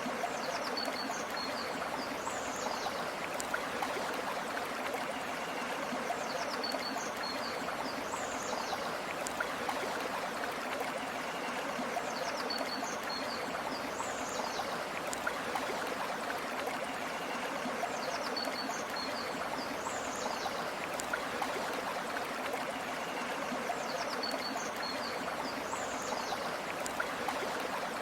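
River water flowing steadily, with a short high call recurring about every four seconds over it.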